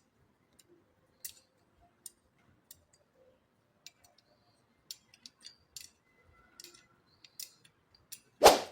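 Scattered faint clicks and taps, irregularly spaced, with one louder short knock near the end.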